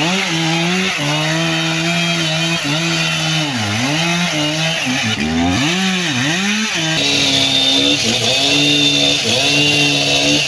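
Two-stroke chainsaw running at full throttle while cutting through a tree trunk. The engine revs up at the start, and its pitch sags several times in the middle as the chain bogs down in the wood before it picks back up.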